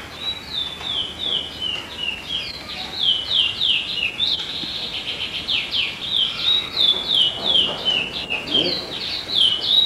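Birds chirping: a steady run of short, high notes, each dropping in pitch, about two a second and at times overlapping.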